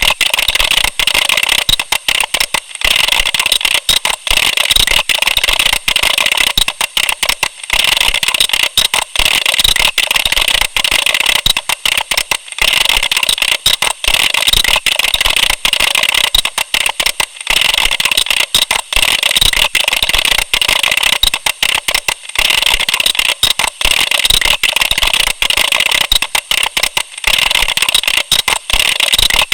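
Computer keyboard being typed on fast: a dense, continuous clatter of key clicks, broken by short pauses about every five seconds.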